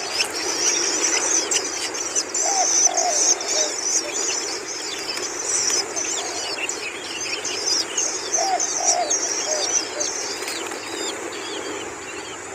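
Long-tailed shrike nestlings begging with rapid, high chirping, run on in dense strings, with a few short lower calls from another bird scattered among them.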